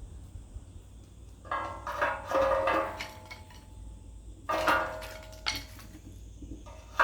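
Metal pieces clanking against each other, with several separate ringing clanks a second or two apart.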